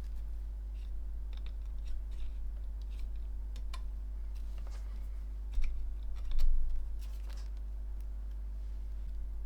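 Small irregular clicks and scratches of multimeter probes and tools being handled against a circuit board while checking for shorts, with a slightly louder clatter around the middle, over a steady low hum.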